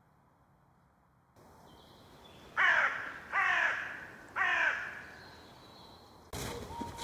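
A bird giving three loud calls, each falling in pitch, about a second apart.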